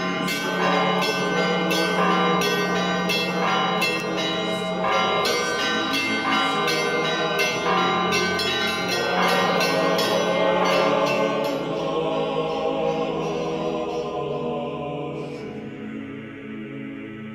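Church bells ringing a rapid peal of many strikes, the tones then ringing on and slowly dying away over the last several seconds.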